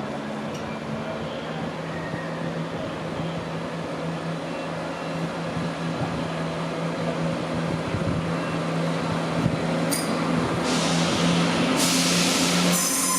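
Train at a station platform: a steady engine hum that grows slowly louder, then a burst of air hiss about ten and a half seconds in, lasting around two seconds, typical of air brakes.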